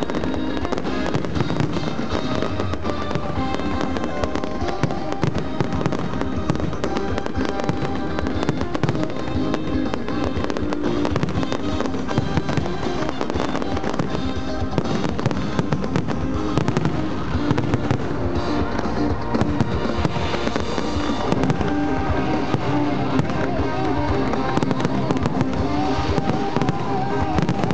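Large aerial fireworks display: many shells bursting in quick succession with a continuous run of bangs and crackles, over music playing throughout.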